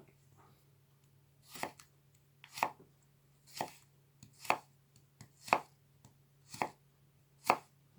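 Knife slicing through a raw carrot on a cutting board, about one stroke a second: each a short crunch ending in a sharp tap as the blade meets the board. The carrot cuts with some effort.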